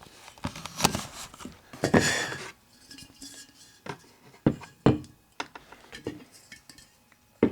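Glass schoolhouse light globes being handled, giving a series of sharp clinks and knocks.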